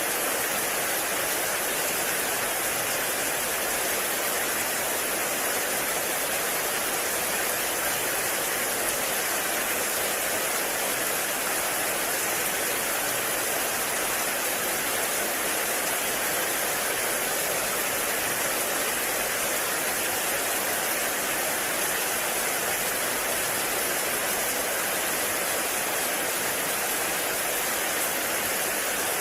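Heavy rain falling steadily in a forest, a dense even hiss without distinct drops.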